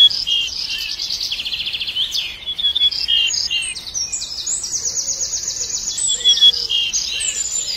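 Songbirds chirping and singing: a busy run of high, short whistled notes and fast rattling trills, overlapping one another.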